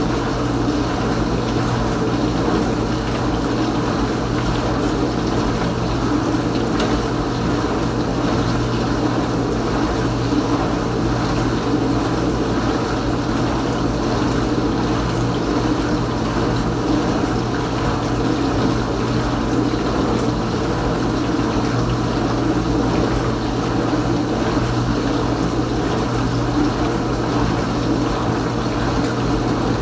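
Kenmore Ultra Wash 3 dishwasher mid-cycle, its pump running with a steady hum while water sprays around inside the tub.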